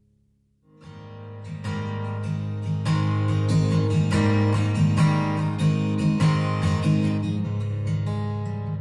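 Acoustic guitar strumming chords without singing, coming in abruptly after a brief silence less than a second in.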